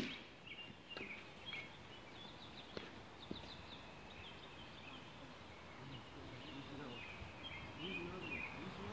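Small birds chirping and singing in quick short phrases, faint, with a few soft knocks in the first few seconds.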